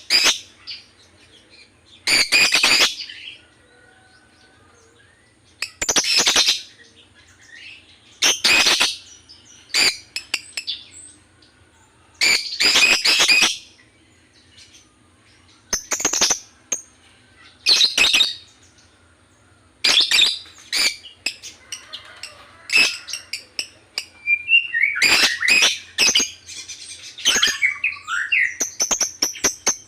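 Lovebird chirping in short, harsh bursts about every two seconds. Near the end it breaks into a fast run of short ticks.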